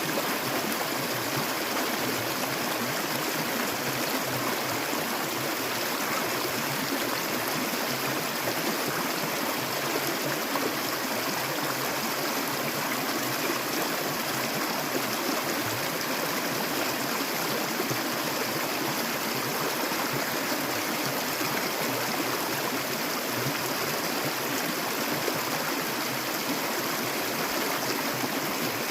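A shallow stream of clear water flowing steadily, a constant rushing and babbling with no breaks.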